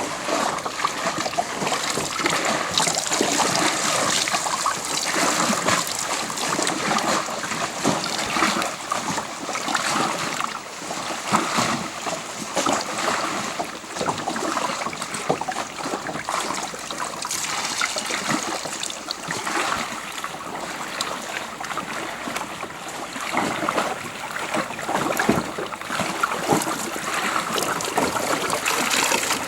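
Water splashing and trickling as a person bathes in a boat, a steady run of small splashes.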